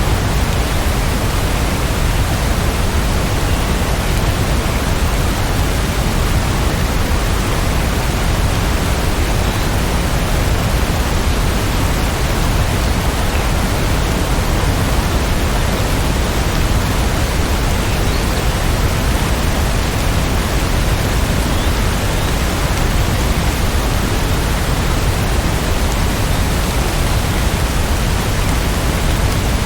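Steady heavy rain: a dense, even hiss with no single drops standing out and no change in level.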